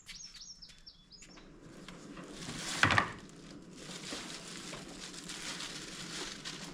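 A bird chirping a quick run of high notes in the first second or so. Then handling noises as the pressure washer's parts are moved about: rustling, with one sharp, loud rustle or knock about three seconds in.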